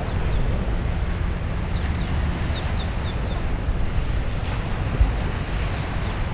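Wind buffeting the microphone, a steady low rumble over a rush of open-air noise, with a few faint short high chirps in the middle.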